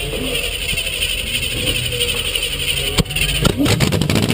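Off-road racing truck's engine running on a dirt track, with a sharp knock about three seconds in.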